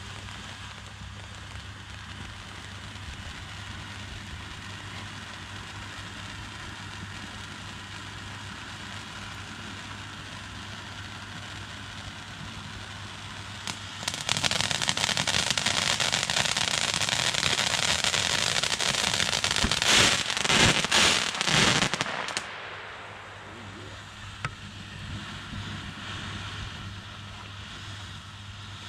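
Consumer fireworks being fired. A faint steady crackle gives way, about halfway in, to a loud, dense crackling hiss lasting about eight seconds. It ends in a quick cluster of loud bangs, then settles back to a faint crackle.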